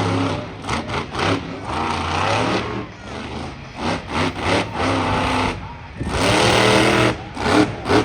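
Monster truck engine revving hard in repeated bursts, its pitch rising and falling, loudest about six seconds in.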